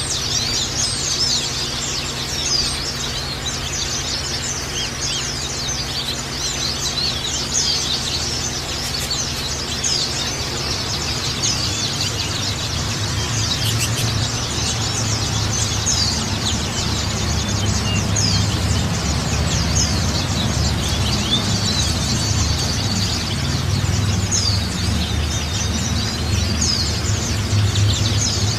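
A flock of white-eyes chirping and twittering together: many short, high calls overlapping without pause. A steady low hum runs underneath and grows a little louder about halfway through.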